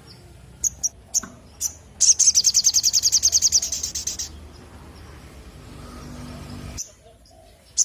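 Little spiderhunter (sogok ontong) calling: a few sharp, high single chips, then a fast trill of about ten notes a second lasting about two seconds, and one more chip at the very end.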